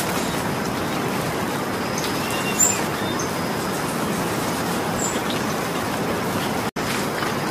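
Steady rain falling, an even hiss and patter, with a few faint high bird chirps. The sound cuts out for an instant near the end.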